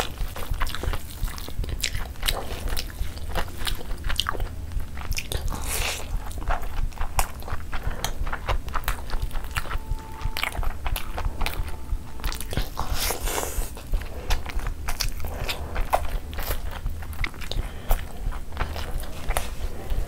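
Close-miked chewing of chicken biryani: a dense run of quick wet clicks and lip smacks from a full mouth, with the rice and chicken squelching as they are handled.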